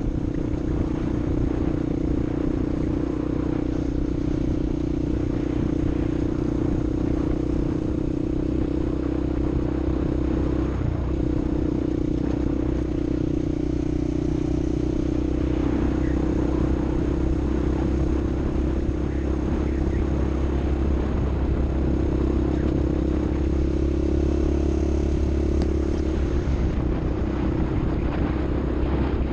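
A vehicle engine running steadily at high revs, its note shifting slightly a few times without dropping off.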